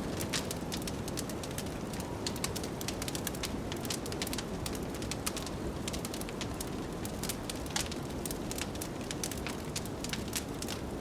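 Wood fire crackling in a fireplace, with many sharp irregular pops and snaps, over a steady low rush of blizzard wind.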